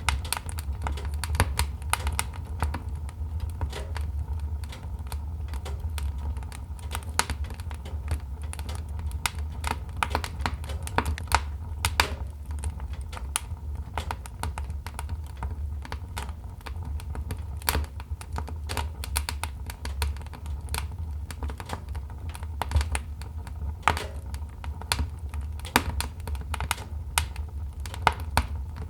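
Wood fire crackling in a fireplace: a steady run of irregular sharp pops and snaps of varying loudness over a low, steady rumble.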